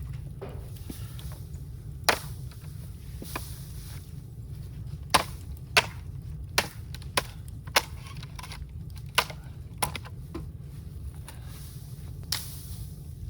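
Bamboo giving sharp, hard cracks, about nine of them at irregular spacing, over a steady low rumble.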